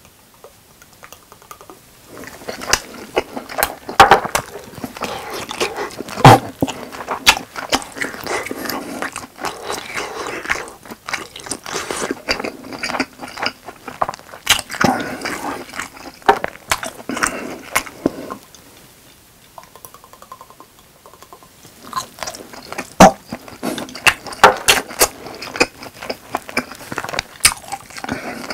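Close-miked chewing with wet mouth clicks and smacks, irregular and fairly loud, pausing for a few seconds after about eighteen seconds before starting again.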